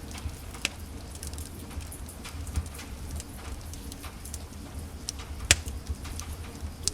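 Wood fire crackling in a fireplace: scattered sharp pops and snaps over a steady low rumble, the loudest pop about five and a half seconds in.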